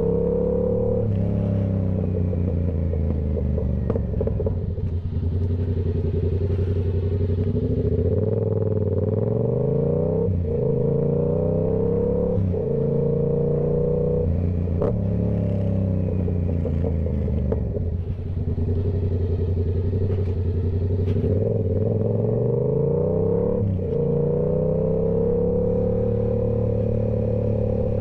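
Yamaha YZF-R7's parallel-twin engine through a Toce full exhaust system, pulling up through the revs and dropping back again and again while riding, with several sharp breaks in pitch from gear changes.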